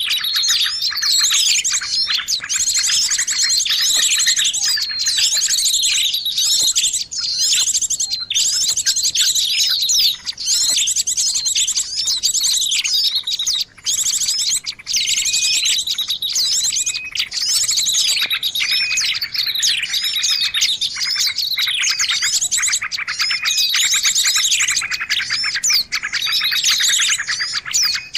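Dense, unbroken chorus of small songbirds chirping and trilling rapidly and high-pitched: a bird-trapping lure mix combining the calls of several small bird species.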